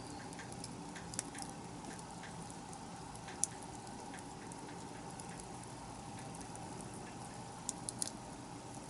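Wood bonfire burning with scattered crackles and sharp pops over a steady hiss. The loudest pop comes about a third of the way in, and a quick cluster of pops comes near the end.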